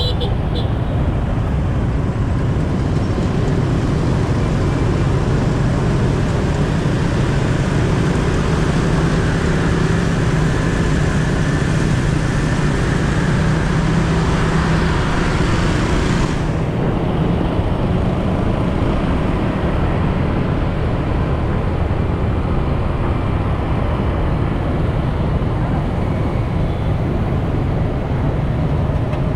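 Motorcycle riding on the road, recorded on a helmet-mounted action camera: a steady dense rush of wind and road noise over a low engine hum. About halfway through, the upper hiss drops away suddenly and the lower rumble carries on.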